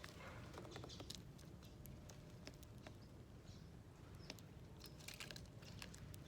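Faint scattered chirps and light clicks of small birds at a seed feeder, over a low steady rumble.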